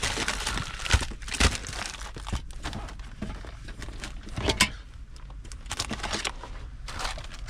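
Snack packaging crinkling and rustling as it is handled and packed, with a few sharp knocks about one, one and a half, and four and a half seconds in.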